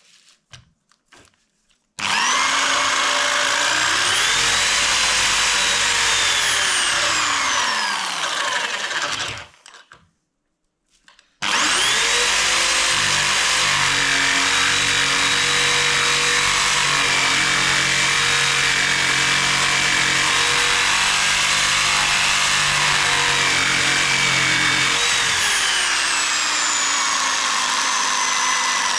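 Electric jigsaw sawing through a thick wooden beam. It runs for about seven seconds and winds down, then after a short pause starts again and runs for about thirteen seconds before winding down near the end. The blade is making little headway through the wood.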